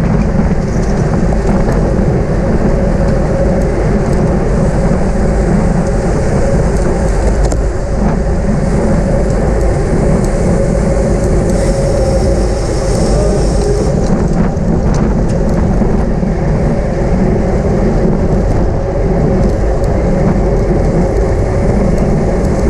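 Steady wind rush buffeting a bike-mounted camera's microphone, mixed with road and tyre noise from a racing bicycle at speed.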